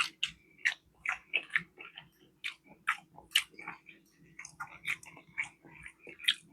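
A person chewing food close to the microphone: irregular wet mouth clicks and smacks, a few each second.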